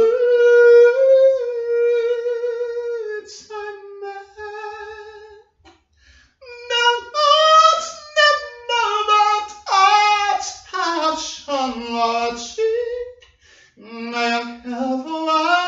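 A single voice singing unaccompanied in a high register: a long held note in the first few seconds, a short break about six seconds in, then a quicker run of notes.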